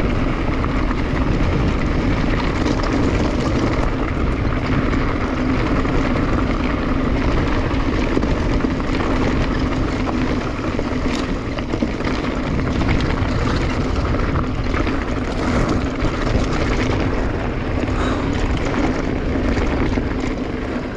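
A 2021 Specialized Stumpjumper EVO mountain bike riding over a loose dirt and gravel trail: a steady rush of wind on the chest-mounted camera's microphone and tyre noise on the loose surface, with scattered small clicks and rattles from the bike.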